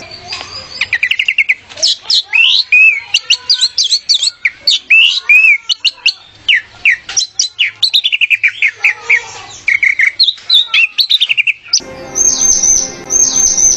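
Orange-headed thrush (anis merah) singing a fast, varied song of whistled and chirping notes, from high sweeps to short warbled phrases. About two seconds before the end, the song gives way to a repeated high falling call over a low steady hum.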